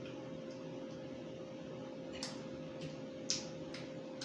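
Mukbang eating sounds of roast chicken: a few short wet clicks and smacks of chewing, about five in the second half with one louder, over a steady electrical hum.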